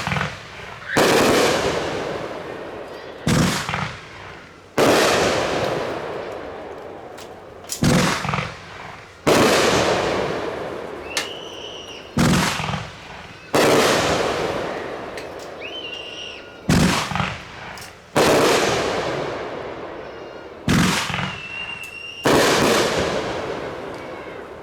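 Aerial firework shells fired one after another: each sharp launch crack from the mortar tube is followed about a second and a half later by a louder burst that fades away slowly over a few seconds. Six shells go off, one every four to five seconds.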